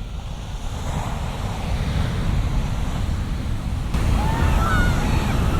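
Shorebreak surf at the Wedge: a steady heavy rumble of breaking waves and wash, growing louder with a step up about four seconds in, with wind buffeting the microphone. Faint short high calls come in near the end.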